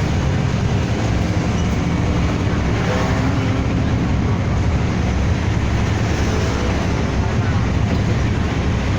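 City bus driving, with its engine and road noise heard from inside the cabin as a steady drone, strongest in the low range.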